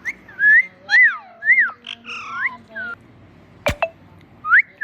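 Pet parrot making a string of short whistled calls that rise and fall in pitch, with a sharp click about three and a half seconds in and one more rising whistle near the end.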